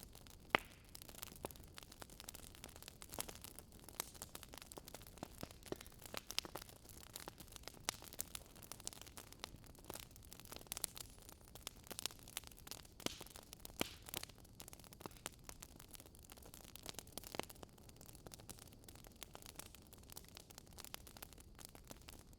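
Wood fire crackling, with irregular sharp pops and snaps over a faint low hiss.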